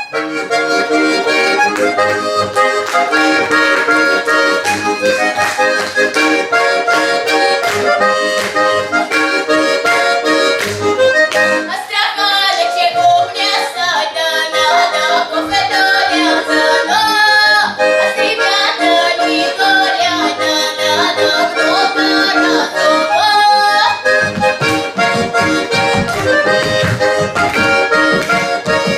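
Accordion playing an instrumental piece: sustained chords with quicker runs of notes through the middle, beginning right at the start.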